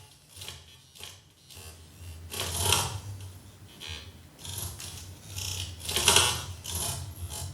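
Glitchy electroacoustic sounds in the manner of digital errors, clicking and crackling in irregular bursts over a low hum, set off by a dancer's movements through a wearable motion sensor. The bursts swell loudest about two and a half and six seconds in.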